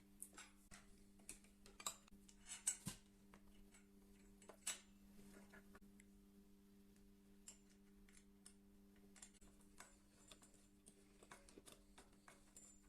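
Small metal parts and tools being handled at a workbench: scattered light clicks and taps, with a few louder ones about two to three seconds in and again near five seconds, over a faint steady hum.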